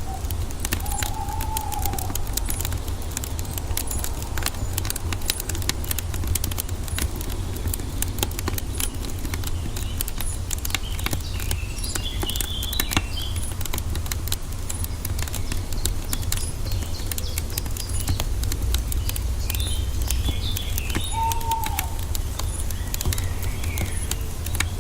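Wood fire crackling with frequent sharp pops over a steady low rumble. Birds call now and then: a short rising-and-falling whistle about a second in and again near the end, and chirps around the middle.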